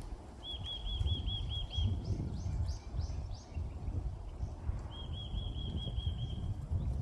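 Songbird singing a quick trill of about eight repeated notes, a short run of higher separate notes, then the same trill again about five seconds in. Wind rumbles on the microphone underneath.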